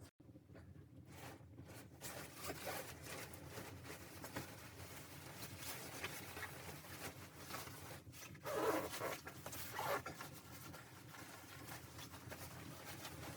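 Close, irregular rustling and scraping, as of fabric or gear being handled, with a louder stretch of rustling about two-thirds of the way through.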